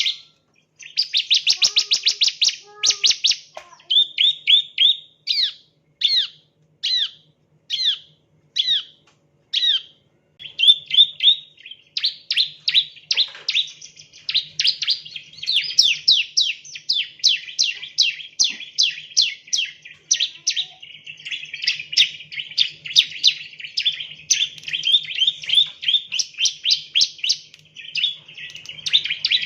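Bar-winged prinia (ciblek, Prinia familiaris) singing: quick runs of sharp, high, downward-sweeping chirps, spaced out into single phrases for a few seconds, then running together into near-continuous rapid trilling from about ten seconds in.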